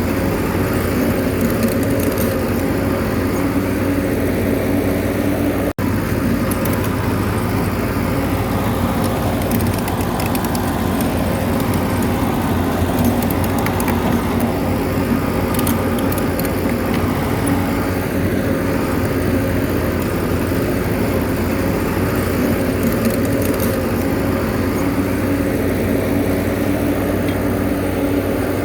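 Bulldozer's diesel engine running steadily, its note holding level throughout, with a momentary cut-out about six seconds in.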